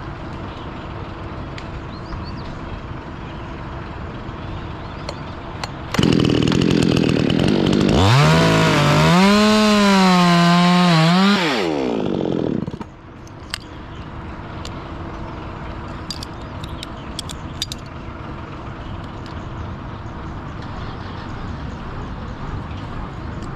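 Chainsaw throttled up about a third of the way in and run hard for several seconds, its pitch climbing and wavering under load as it cuts through a storm-damaged branch, then dropping away about halfway through.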